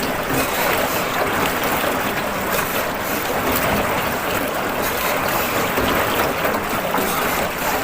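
Steady rushing noise of river water and open air around a small rowing boat under way.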